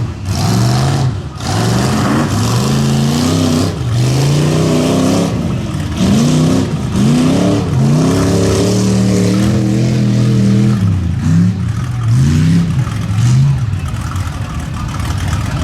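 Mud bog truck engine revving hard over and over, its pitch climbing and dropping with each burst of throttle.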